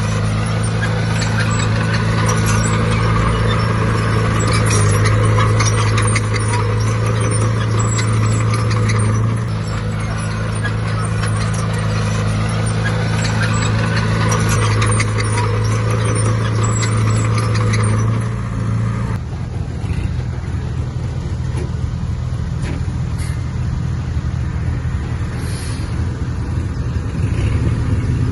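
Heavy diesel earthmoving machine working, its engine running steadily under load; about two-thirds of the way through the engine note changes and the sound becomes quieter and rougher.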